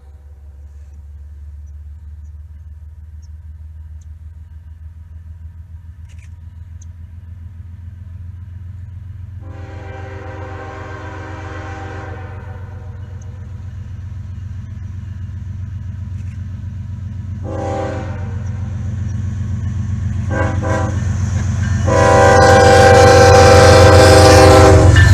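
Diesel freight locomotive approaching with its engine rumble growing steadily louder, sounding its multi-tone air horn: a long blast, then a few short blasts, then a loud long blast near the end.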